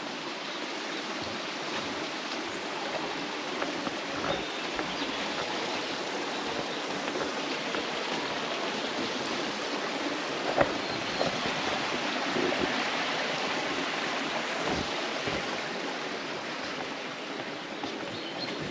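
Steady rush of a flowing mountain stream, with a few small ticks and one sharp click about ten seconds in.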